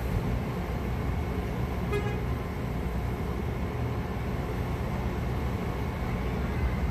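Steady low rumble of a Metra commuter train standing at the platform, with one short, high, horn-like toot about two seconds in.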